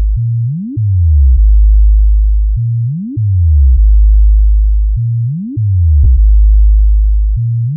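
Loud synthesized low-frequency bass test tone for a sound-system sound check: a deep sub-bass drone that about every two and a half seconds sweeps sharply up in pitch, then steps back down to the drone.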